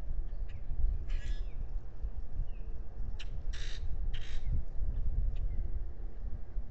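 Wind rumbling on the microphone, with three harsh, rasping bird calls, the last two close together, and a couple of faint short falling chirps.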